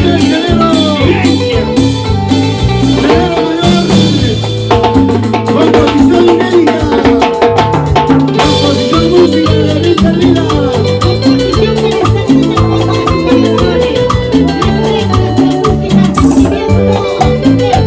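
Live band playing an instrumental passage of a Latin dance tune, with a moving bass line, steady percussion and a melodic lead, no singing.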